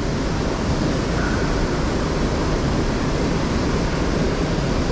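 Steady rushing of river water running through a rapid.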